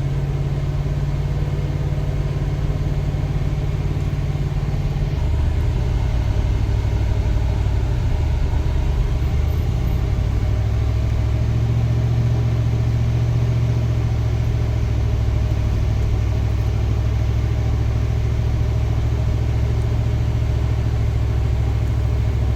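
Car running on the road, a steady low engine and road drone whose pitch shifts a few seconds in and then holds steady.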